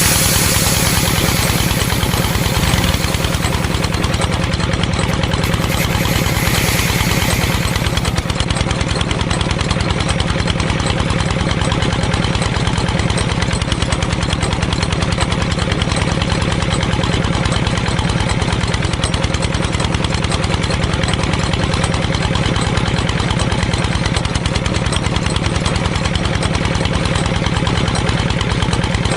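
A small motor running steadily at an even speed, with a fast, regular rhythm.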